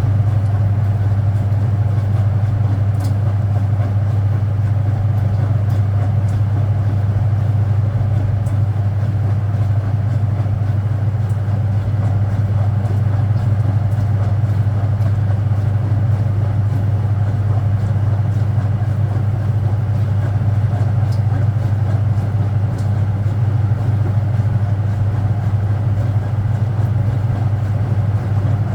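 Speed Queen top-loading washing machine running with a steady low motor hum.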